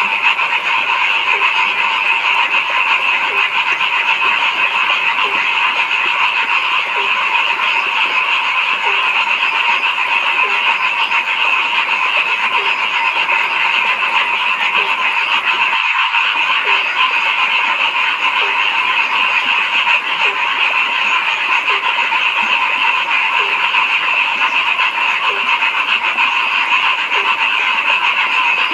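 Dense, steady chorus of many frogs calling together, with a lower single call repeating about once a second underneath.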